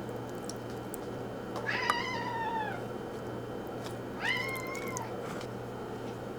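A cat meowing twice: two short calls, each dropping in pitch at the end, a couple of seconds apart, over a steady low hum.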